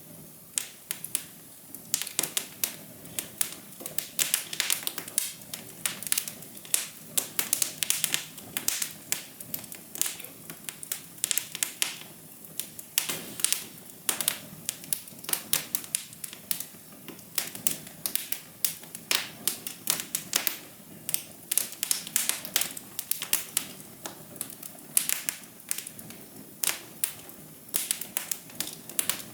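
A wood fire crackling: irregular sharp pops and snaps, several a second, over a steady low hiss.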